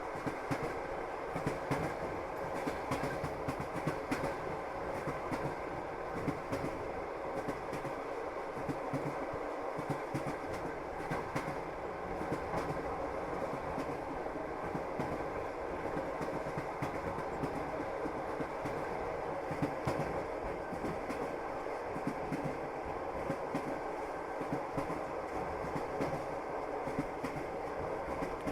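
Passenger train running, its wheels clattering over the rail joints with many short clicks over a steady rumble.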